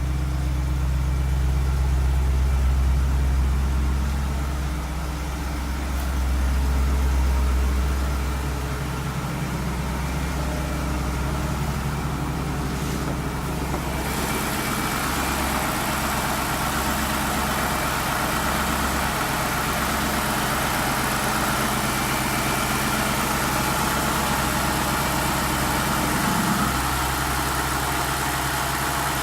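BMW Alpina B5 E60's supercharged V8 idling through its stock exhaust after a cold start, a steady low hum that swells slightly twice early on. About halfway through, a higher hissing sound comes in over the idle and stays.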